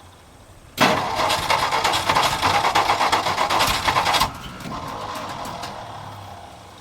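1962 Ford F-350's engine cranking over on the starter, primed with gas poured into the carburetor: a loud, fast, rhythmic churn begins about a second in and stops sharply some three and a half seconds later, followed by a fainter sound fading away over a couple of seconds.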